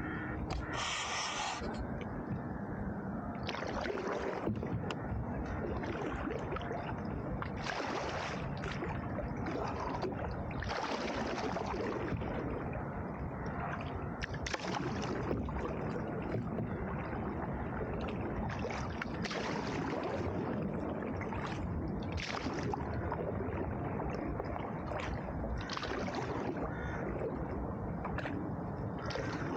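Canoe paddle strokes in river water, a splash and swish every three to four seconds over a steady wash of water and air noise.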